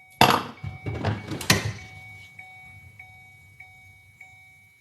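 A burst of scraping and knocking from work on the car's seat, loudest with a sharp knock about a second and a half in. Under it, the car's warning chime beeps steadily, a bit under twice a second.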